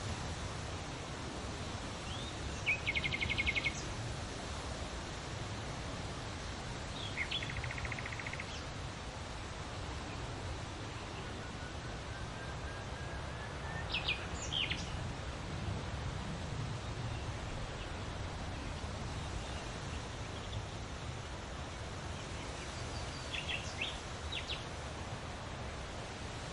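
Outdoor ambience of steady rustling background noise with occasional songbird calls: a rapid trill about three seconds in, another trill about seven seconds in, a couple of sharp high notes around the middle, and a few short chirps near the end.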